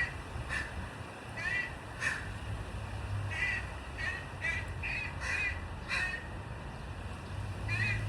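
Crows cawing repeatedly, about a dozen short harsh calls in a loose series.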